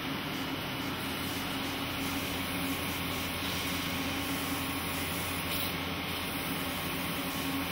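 TRUMPF TruMatic 7000 combination punch-laser machine running with a steady mechanical hum, no separate punch strokes.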